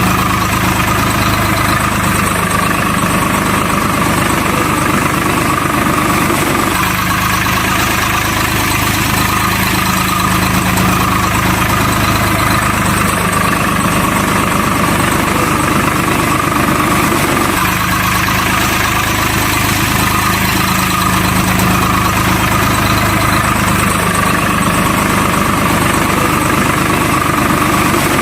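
Truck engine idling, a steady drone that repeats itself about every eleven seconds like a looped sound track.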